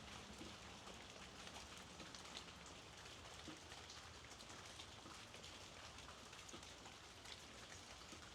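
Soft, steady rainfall: an even hiss of rain with many scattered individual drops tapping.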